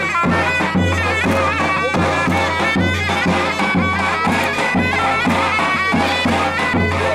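Loud Turkish folk music: a zurna plays an ornamented, wavering melody over steady davul drum beats, with a heavy stroke about once a second and lighter strokes between.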